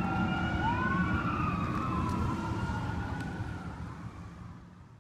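Fire engine's siren wailing in slow rising and falling sweeps over a low engine and road rumble, fading out over the last couple of seconds.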